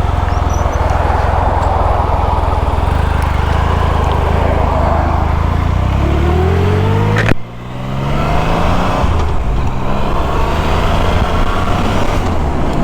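Motorcycle engine running at road speed under wind noise, its pitch rising as it accelerates. About seven seconds in there is a sharp click and the sound drops off suddenly, then the engine pitch climbs again.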